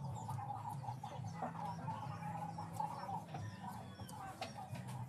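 Bird calls, with a low steady hum and a few sharp clicks.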